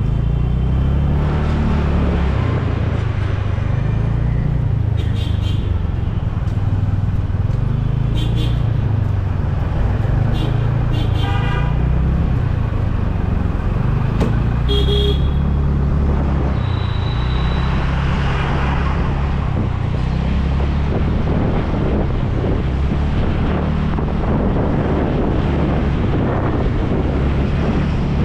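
Road traffic heard from a moving bike, with heavy wind rumble on the microphone and vehicle horns honking several times, about five, eight, eleven to twelve and fifteen seconds in.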